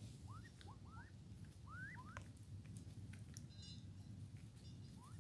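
Faint bird whistles: a quick run of five or six short rising notes in the first couple of seconds, and one more near the end. A few faint clicks and a low steady rumble sit underneath.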